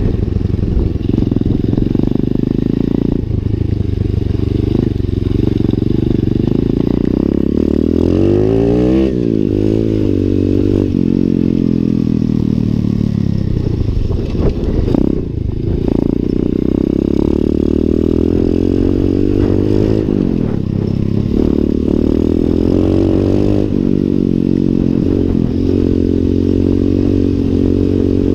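Lifan 125 cc single-cylinder four-stroke pit bike engine under way, revving up and down as it is ridden. The pitch climbs sharply about eight seconds in and falls away, with further drops and rises later on.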